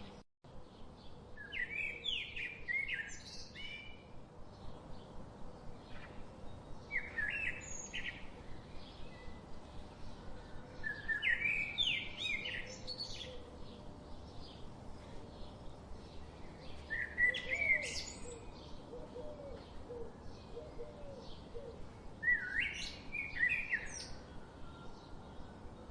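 Birdsong: a songbird sings a short, quick phrase about every five seconds, over a steady background hiss.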